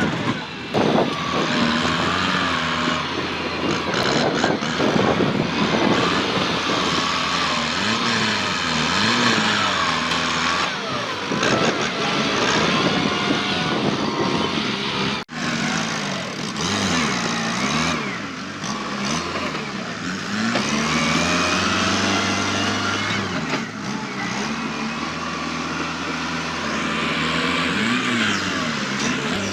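Kubota tractor's diesel engine working hard, its revs rising and falling again and again under load, with a brief cut-out about halfway through.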